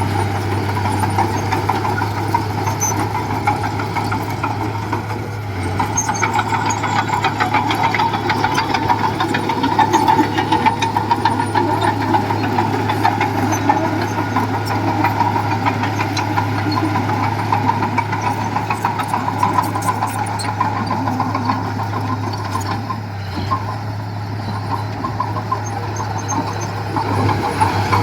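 Diesel engine of heavy earthmoving equipment running steadily under work, a little louder around ten seconds in.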